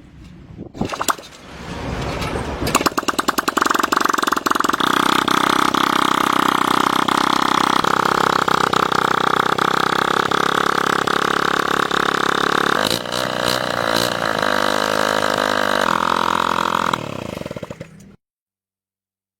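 Honda Super Cub C90's small single-cylinder four-stroke engine catching and then running steadily, its note shifting a few times. The sound cuts off suddenly near the end.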